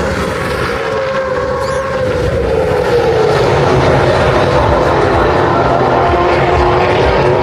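V8 Supercars race cars running hard on the track, a steady engine drone with one car's note falling in pitch as it goes by. It gets louder from about three seconds in.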